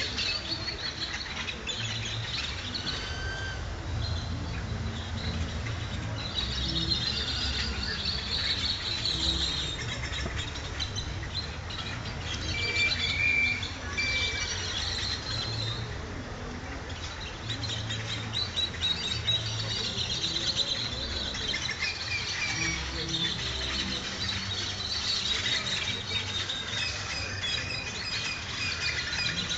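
A flock of many birds chirping and squawking at once, a dense, unbroken chatter of short high calls, over a low background rumble.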